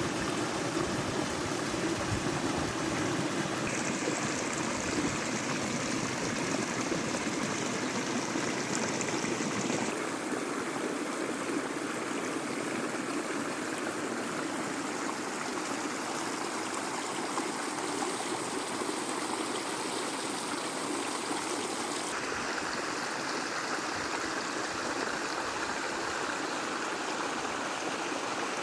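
Stream water running steadily, a continuous rush whose tone shifts a few times.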